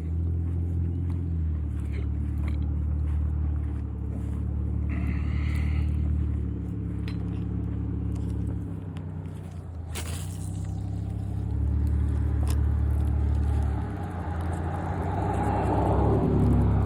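An engine running steadily with a low-pitched hum that swells and eases in level, with a sharp click about ten seconds in.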